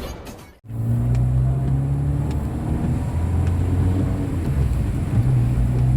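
Intro music fades out and cuts off about half a second in. A car's engine and road noise then hum steadily, a constant low drone, as the car drives along.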